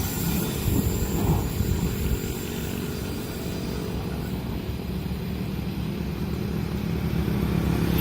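Deep, steady engine rumble with a constant low hum, slowly growing louder toward the end; a fainter high hiss fades out about three and a half seconds in.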